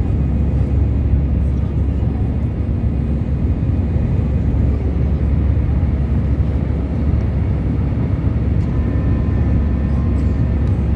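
Airliner jet engines running with a steady low rumble. A faint steady whine comes in near the end.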